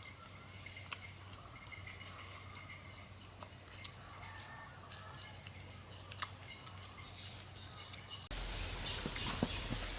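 Insects trilling in one steady, unbroken high tone, with faint scattered ticks. About eight seconds in the sound cuts abruptly to a louder hiss with a few knocks.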